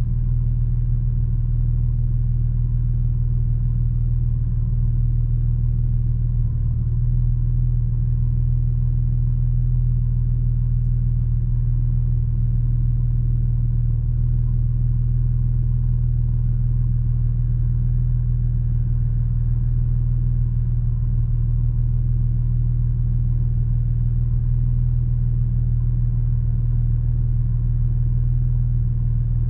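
Porsche Boxster 986's flat-six engine and road rumble while cruising at a steady engine speed. It is a steady low drone with no rise or fall in pitch.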